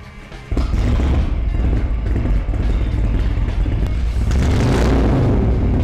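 2018 Indian Chieftain Limited's Thunderstroke 116 cubic inch V-twin, with a Stage 1 intake and exhaust, breaking in about half a second in with a loud, deep rumble and rising in a rev around four to five seconds in.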